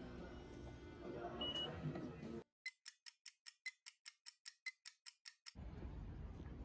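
Rapid, even ticking, about six ticks a second with a brighter tick every half second. It sounds on its own for about three seconds after the background drops out suddenly, and the background comes back near the end.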